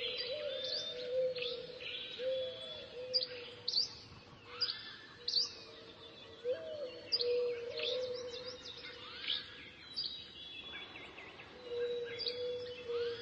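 Small birds chirping: short, sharp, falling chirps about one or two a second, fewer for a couple of seconds past the middle, over a low steady tone that comes and goes.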